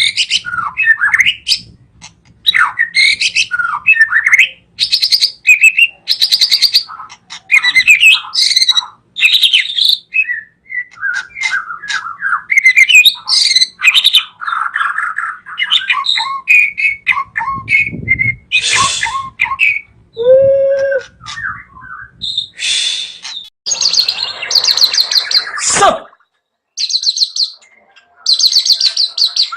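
White-rumped shama (murai batu) singing a long, varied song of whistled phrases, rapid trills and chattering notes, with short pauses between phrases.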